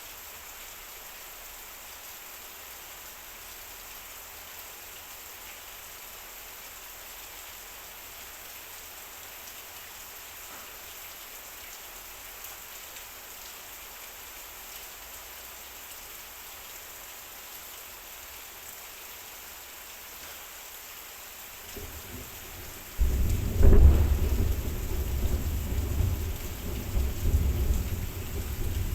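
Heavy rain falling on a metal roof, a steady hiss. About three-quarters of the way through, a loud, deep rumble of thunder breaks in suddenly, peaks a second later and rolls on unevenly over the rain.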